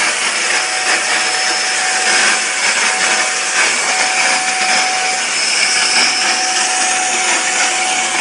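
Vacuum cleaner running steadily: an even rushing hiss with a steady motor whine.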